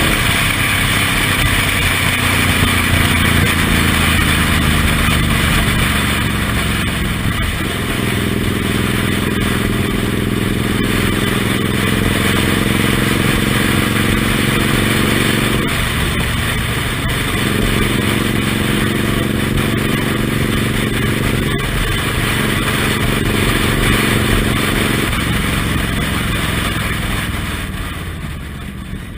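Suzuki Intruder M1800R's big V-twin engine running at road speed, heard from the pillion seat with wind rush over the microphone. The engine note falls in the first few seconds, then holds steady, dropping briefly and picking up again about four times as the rider shifts or eases off the throttle.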